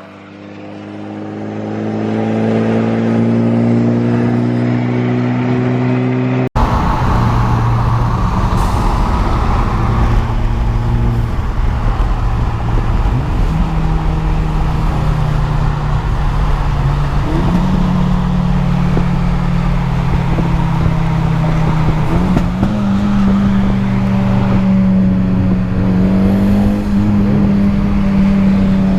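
Car engine running as the car is driven: its pitch climbs slowly at first, then after an abrupt cut settles into a steady drone that steps up in pitch three times.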